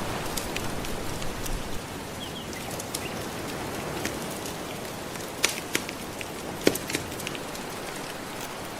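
Steady wash of ocean waves with a wood fire crackling over it, a scatter of sharp pops, the loudest two a little past halfway.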